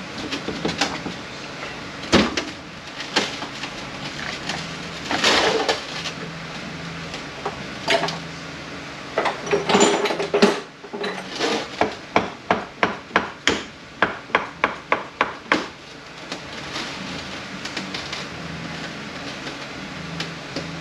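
Metal clanks, knocks and scrapes as a stuck drum is worked at inside a Mercedes 722.118 automatic transmission, the drum refusing to come off. A little past the middle comes a run of quick, even strikes, about three or four a second, lasting some four seconds.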